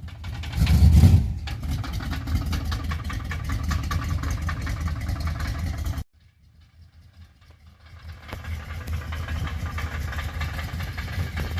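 Big-block Chevrolet V8 running with a rapid, steady knocking, which the owner takes for a rod knock, possibly a main bearing. There is a brief rev about a second in. The sound cuts off suddenly about six seconds in and comes back a couple of seconds later.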